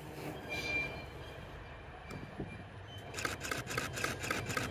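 Low rumble of a train at the station, with a quick run of about six evenly spaced high squeaks starting about three seconds in.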